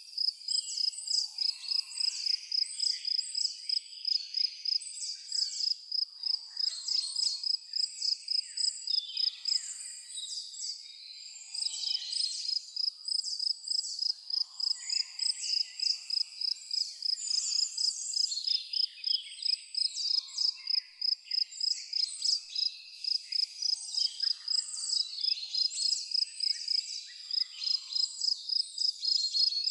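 A cricket chirping in a steady, even pulse, pausing briefly about a third of the way in, with several birds singing varied short calls over it.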